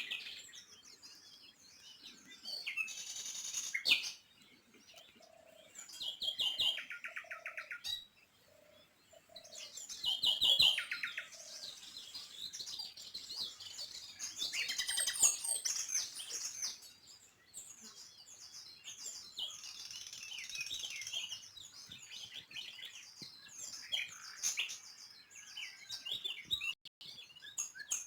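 Small songbirds chirping and twittering, many calls overlapping, with quick rattling trills now and then and a few short low notes in the middle.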